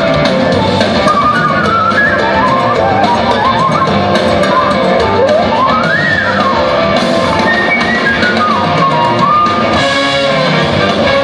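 Live rock band playing, with an electric slide guitar lead line over drums; the guitar's notes glide smoothly up and down, with one long slide up and back down about halfway through.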